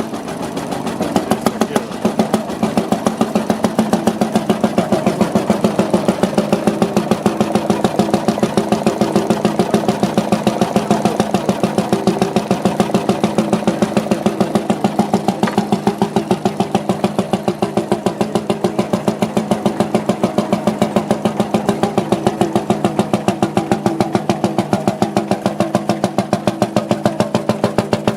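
Single-cylinder heavy-oil hot-bulb stationary engine running at low speed, each firing stroke a distinct, evenly spaced beat.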